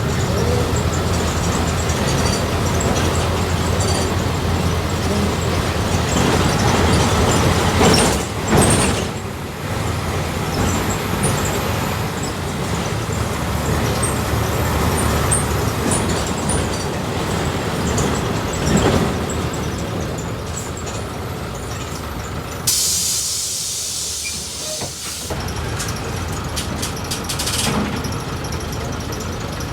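Volkswagen 17.230 OD city bus engine running as the bus drives. About 23 seconds in, a burst of compressed-air hiss from the bus's pneumatics lasts about two and a half seconds and stops suddenly.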